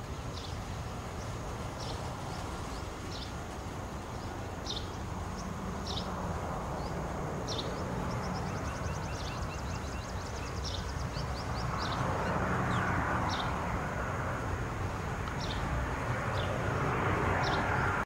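Birds calling: a short, sharp high call repeated about once a second, with a quick high trill and a run of short notes about halfway through. Underneath runs a steady low rumble, and a rushing noise that grows louder in the second half.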